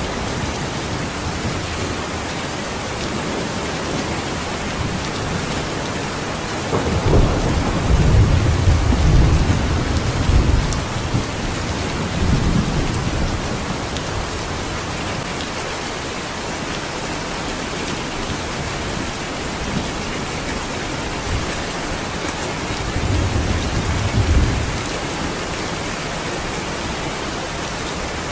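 Steady rain pouring down, with rolling thunder rumbling low: a long roll starting about 7 seconds in, and a shorter one near the end.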